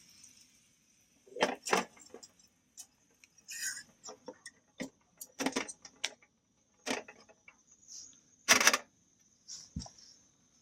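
Irregular light clinks and knocks of hard objects being handled, with the loudest knock near the end.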